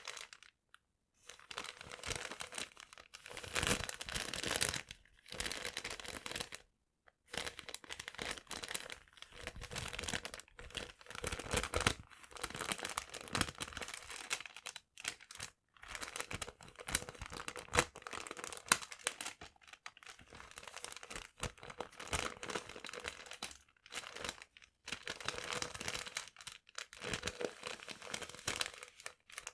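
Paper being crumpled and handled close to the microphone, crinkling in irregular bursts with a couple of short pauses.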